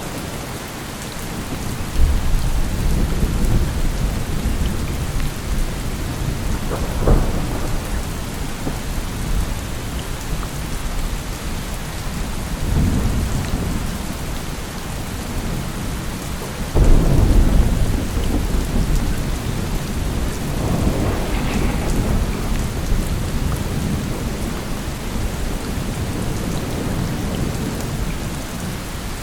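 Steady heavy rain with rolling thunder: a rumble comes on suddenly about two seconds in, a sharp crack follows near seven seconds, and a second sudden, loudest rumble about seventeen seconds in, with softer rolls between.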